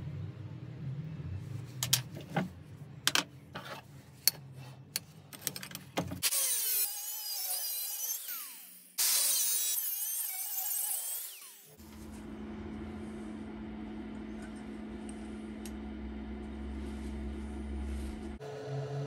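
Workshop power-tool work: a few seconds of clicks and taps, then two loud, harsh high-pitched bursts of a power tool cutting, then a steady low motor hum with a constant tone that cuts off suddenly.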